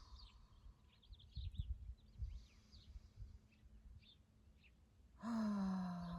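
Birds chirping faintly, then, about five seconds in, a long voiced sigh on an exhale through the mouth that starts abruptly and slides slowly lower in pitch.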